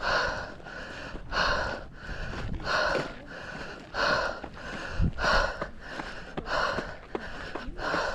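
A person breathing hard and rhythmically from the exertion of climbing a steep trail: a loud breath about every second and a quarter, with softer breaths in between.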